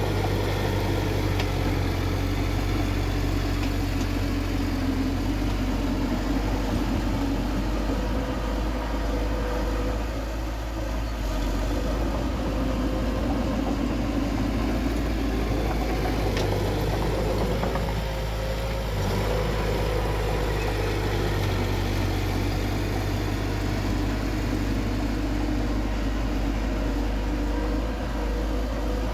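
Bulldozer's diesel engine running steadily, with a low, even drone.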